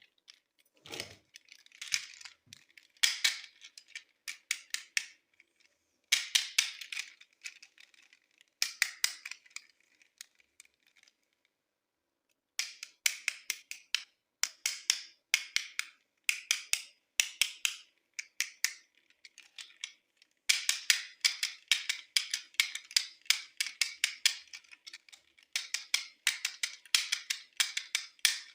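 Quick runs of sharp clicks and crackles from hard plastic being handled, as in unboxing plastic toy packaging, with a pause of about a second and a half near the middle.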